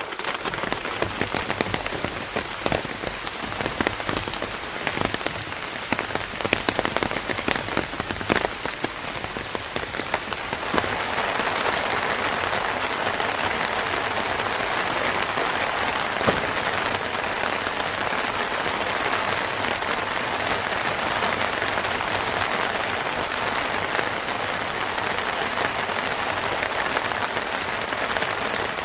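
Rain falling, at first with many separate drops pattering on a surface, then thickening into a denser, steady rush about eleven seconds in.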